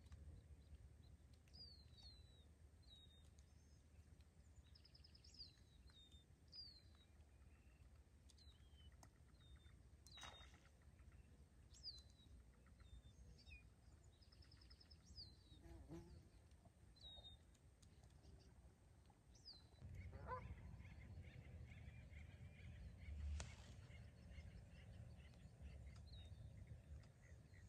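Faint small-bird chirping: many short chirps sliding downward in pitch, repeated through most of the stretch. A low rumble of wind on the microphone runs beneath and grows louder about two-thirds of the way through.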